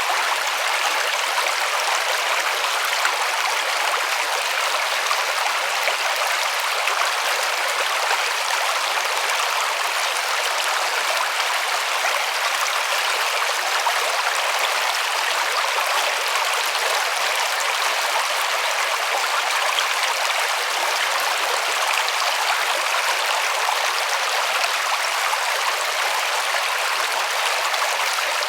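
River water flowing over stones, a steady rushing with no change.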